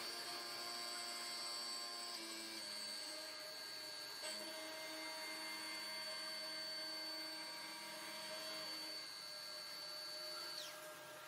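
CNC machine tool running with a steady electric whine over a low hum, its tones shifting a couple of times; near the end the high whine slides down in pitch.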